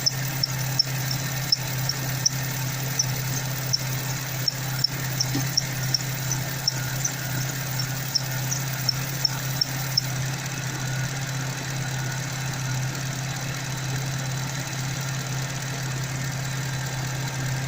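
Car engine idling with its serpentine (alternator) belt chirping in short, high squeaks about two to three times a second: the cracked belt is slipping on the pulleys. The chirping stops about ten seconds in once the belt is treated with silicone grease, leaving the steady idle.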